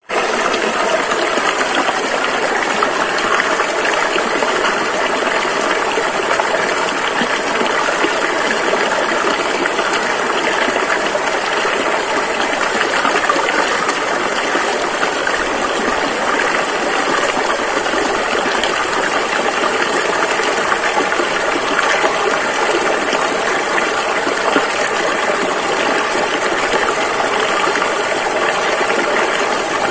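Rushing river water: a steady, unbroken rush of flowing water with little deep rumble.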